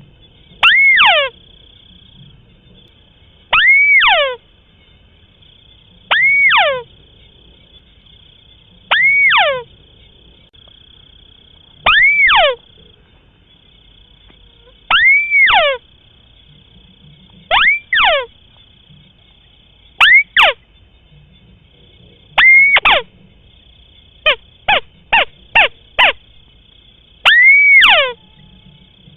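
White-browed crake calling, a recording played for luring: a loud call repeated about every three seconds, each note arching up and then sweeping steeply down. Near the end comes a quick run of about five short notes, and a faint steady high-pitched tone runs underneath.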